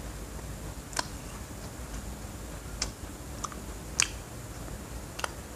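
A person chewing a crunchy snack with the mouth closed: five short, sharp crunches at uneven intervals.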